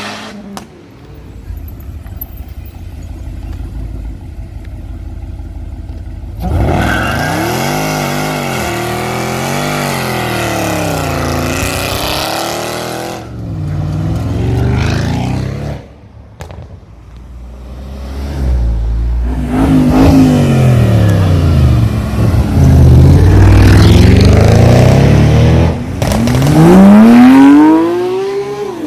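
Sports car engines revving and accelerating hard past, the pitch climbing and dropping again and again through gear changes. A low engine rumble comes first, and the loudest run is in the last third.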